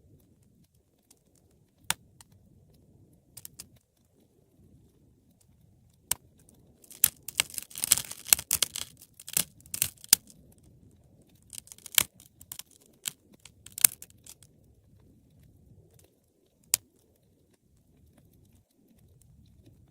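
Wood fire crackling: scattered sharp pops over a faint low rumble of burning, with a dense run of crackling in the middle and a few single loud pops.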